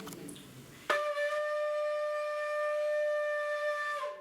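A shofar blown in one long, steady blast of about three seconds, starting about a second in and dropping slightly in pitch as it ends.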